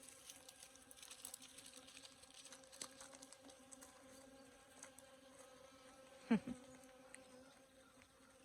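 Many bees buzzing steadily as they work the flowers of a Texas sage bush, a low, even hum. A brief louder falling sound about six seconds in.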